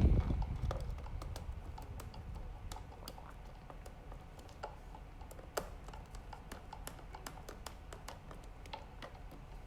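Small screwdriver driving the bottom-cover screws into a laptop's plastic case: scattered faint clicks and ticks, after a short handling bump right at the start.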